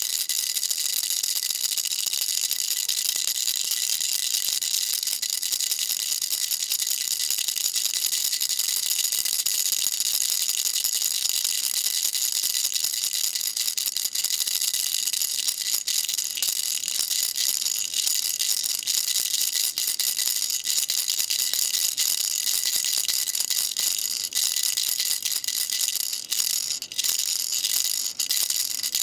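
Baby rattle shaken continuously: a dense, even, high-pitched rattle of many small rapid ticks, with a few brief gaps near the end.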